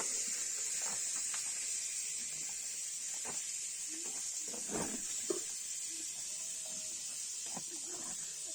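Steady high-pitched hiss with scattered small clicks and knocks over it.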